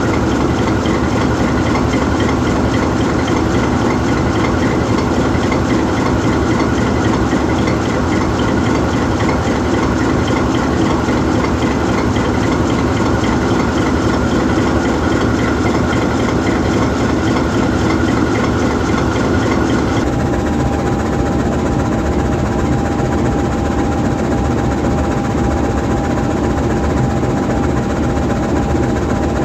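GE U20C diesel-electric locomotive's V12 diesel engine idling steadily while the locomotive stands parked. About two-thirds of the way through, the sound changes: the higher hiss drops away and a steady mid-pitched whine comes in.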